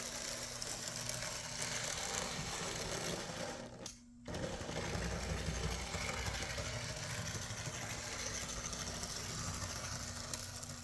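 Small electric motor and gear drive of a Z scale Rokuhan USRA 0-6-0 steam locomotive model whirring steadily as it runs along the track, with a light mechanical rattle. The sound drops out briefly about four seconds in, then carries on.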